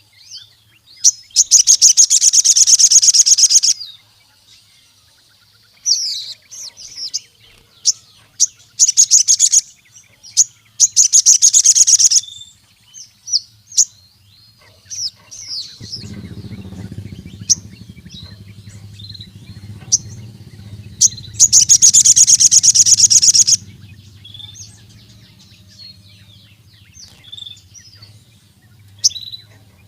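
Sogon (ruby-cheeked sunbird) singing: several loud, rapid, high rattling trills a few seconds long, broken by short sharp chips. A faint low hum joins about halfway through.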